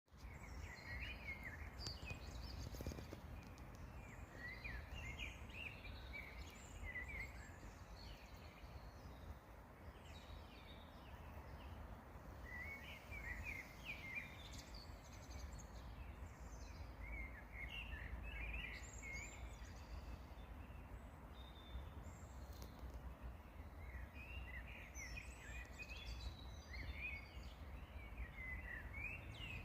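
Songbirds singing and chirping in short bursts of quick notes that come and go, over a steady low rumble.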